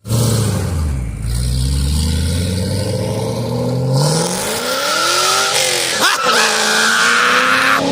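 Car engine accelerating, its pitch climbing steadily, then a brief break about six seconds in, like a gear change, before it climbs again.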